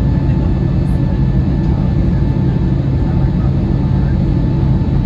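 Steady low drone of an Airbus A320neo-family jet's engines and airflow heard inside the passenger cabin, with a faint steady hum on top and no change in level.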